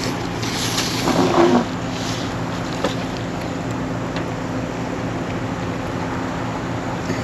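Steady drone of a 1966 Ford F-250's engine heard from inside the cab, with a low hum and a windy rush. About a second in, a brief louder noise rises over it for about half a second.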